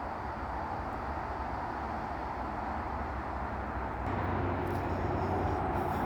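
Steady rush of distant motorway traffic, a continuous even roar that grows a little louder about two-thirds of the way in.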